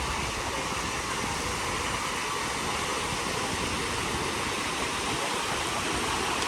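Beach ambience: a steady, even rush of surf and wind.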